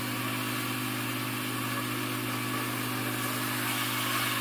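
Chicken pieces sizzling as they brown in hot oil in an aluminium pot, an even steady hiss, over a steady low hum.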